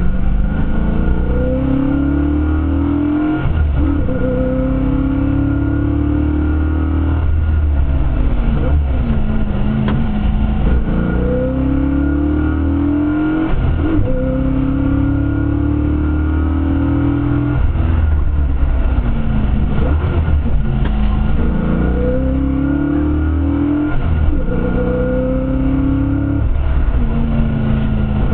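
Leyland P76 race car engine at full throttle, its pitch climbing through each gear and dropping back at every shift or braking point, again and again as the car laps the circuit.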